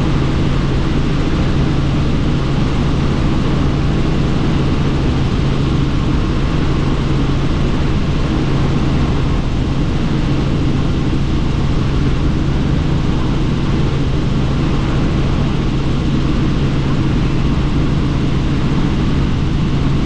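Helicopter in flight heard from inside the cabin with the doors off. Engine and rotors make a steady drone with a low hum, under constant rushing wind noise.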